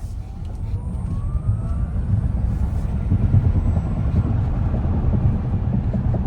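Tesla Model X electric drive accelerating hard: a faint motor whine rising in pitch over the first two seconds, over a low road and tyre rumble that builds and then holds.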